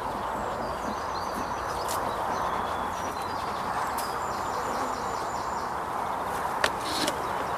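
Birds singing, with trills of quickly repeated high notes, over a steady outdoor hiss, and a sharp click near the end.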